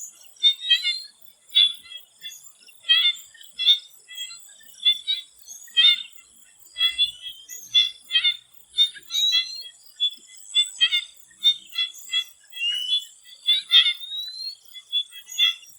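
Swamp frogs calling in a busy chorus of short, high chirps, one or two a second, a few rising in pitch, over a thin steady high insect hum.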